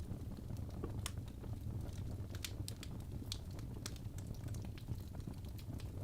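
Wood fire burning in a fireplace: a steady low rumble of the flames with irregular sharp crackles and pops from the burning logs, a few each second.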